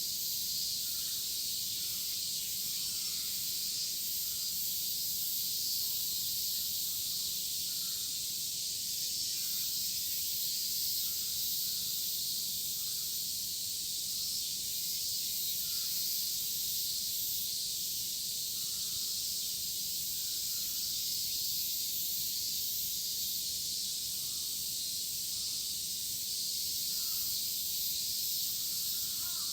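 A dense chorus of cicadas shrilling in a steady, unbroken high-pitched hiss, with faint short bird calls now and then.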